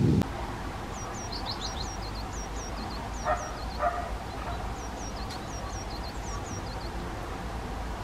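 High, thin songbird chirps repeated in quick pairs, each note falling in pitch. Two short dog barks come a little past three seconds in.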